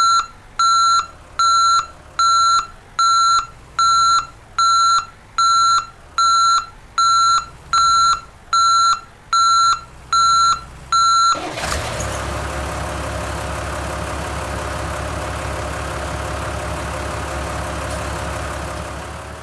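Electronic beeper sounding a regular train of short, identical high beeps, about four every three seconds, which stop about eleven seconds in. A steady loud rumble with hiss then takes over and fades away near the end.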